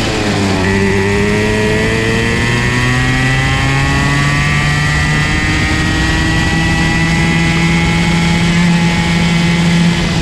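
Comer C50 50cc two-stroke kart engine at speed. The revs drop sharply right at the start, then climb slowly and steadily for several seconds and ease off a little near the end.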